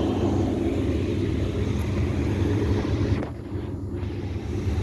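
American Standard central air-conditioner condensing unit running: a steady low hum of compressor and condenser fan, with a steady tone in it. About three seconds in it briefly turns quieter and duller, then comes back.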